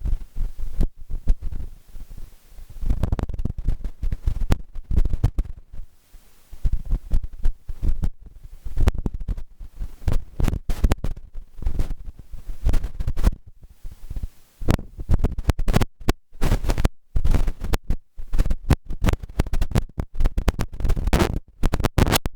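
Microphone buffeting: loud, irregular low rumbles and thuds coming and going every second or so.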